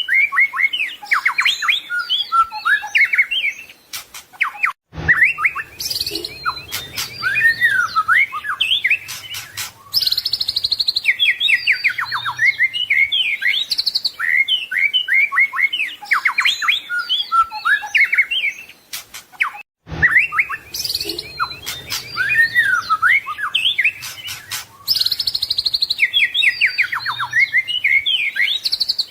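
White-rumped shama (murai batu) singing a dense, varied song of whistled phrases, slurs and rapid trills, full of learned 'isian' phrases. It is a looped recording, cutting out briefly about 5 and 20 seconds in before the same stretch of song starts again.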